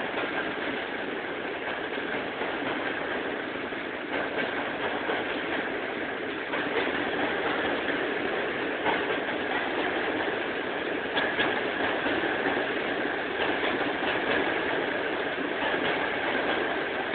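A train's steady mechanical running noise, even and unbroken, with a faint high tone throughout and a few light clicks.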